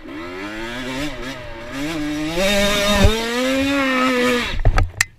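Dirt bike engine revving. Its pitch wavers up and down, climbs and gets louder about two seconds in, holds high, then cuts off abruptly near the end, with a few sharp clicks after.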